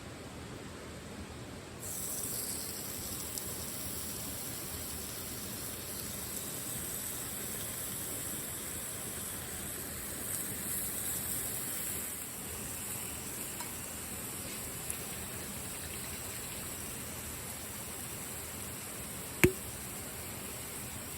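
Steady rushing of rain and a river, with the hiss getting stronger about two seconds in. One sharp click near the end.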